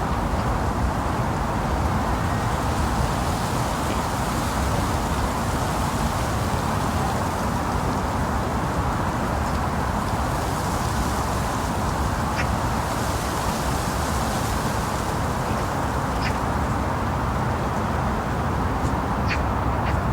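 Steady low outdoor rumble by a waterway, with a few brief bird calls about twelve seconds in and again near the end.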